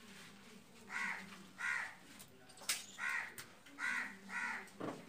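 A bird calling five times in short calls, unevenly spaced across a few seconds, with a couple of sharp clicks between them.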